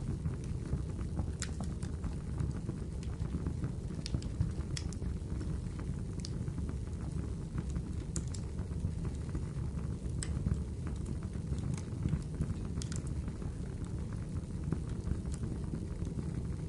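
Wood fire burning in a fireplace: a steady low rumble of flames with scattered sharp crackles and pops from the burning wood, about one every second or so.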